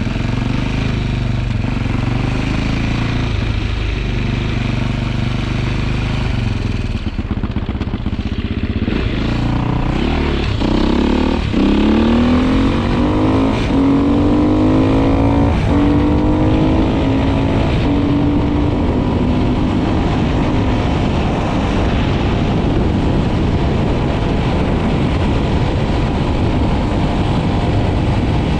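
Motorcycle engine idling steadily, then revving up as it pulls away about ten seconds in, and running steadily under way.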